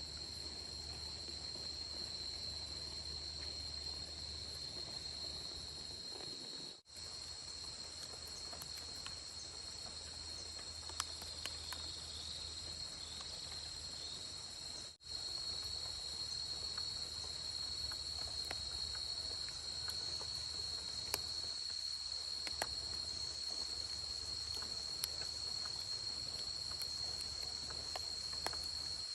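Steady chorus of crickets trilling, a continuous high-pitched drone with scattered faint ticks, cutting out briefly twice.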